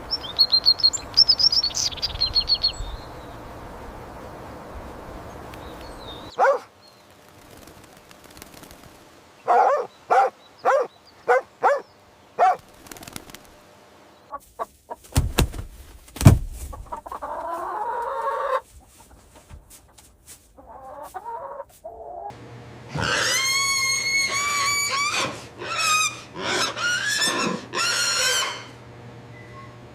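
Chickens calling: a quick run of short clucks about a third of the way in, and longer, wavering pitched calls through the last third.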